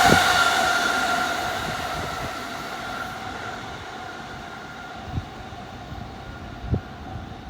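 E217-series electric train running through the station and pulling away, its noise with a steady whine fading over several seconds. A few short dull thumps come near the start and towards the end.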